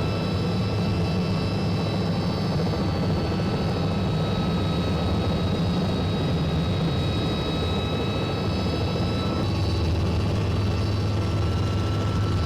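Robinson R66 helicopter running after start-up, its Rolls-Royce turboshaft engine and turning main rotor making a steady noise with a high turbine whine on top. Described as a huge sound.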